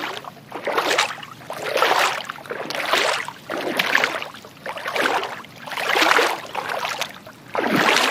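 Water sloshing in rhythmic swishes, about one a second, as a small plastic toy animal is swished about by hand to wash the mud off it.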